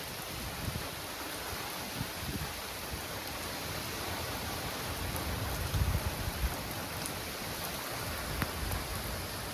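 Steady rain falling hard in a thunderstorm, an even hiss, with a few brief low rumbles, the strongest about six seconds in.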